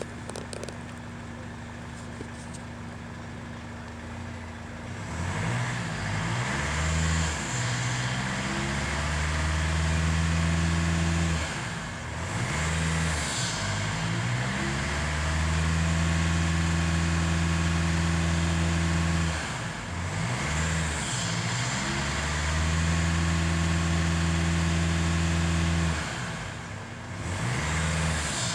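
The Mercedes GLA 220d's 2.1-litre turbo diesel running. It is low and steady at first, then about five seconds in it climbs to a higher, steady note. Several times its pitch drops away and rises again.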